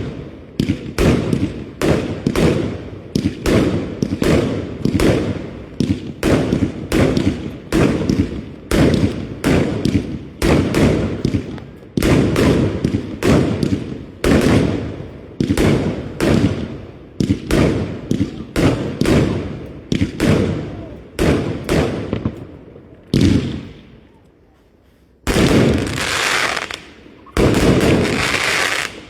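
A dense barrage of firework bangs, two or three a second, each with a short echoing tail. Near the end, after a brief lull, come two steady hisses of about two seconds each.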